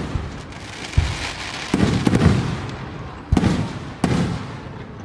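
Aerial fireworks shells bursting: four or five loud booms about a second apart, each followed by a rolling rumble.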